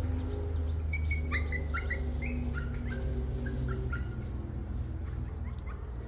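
A bird calling in a series of short chirping notes from about one second in until near the end, over a steady low hum.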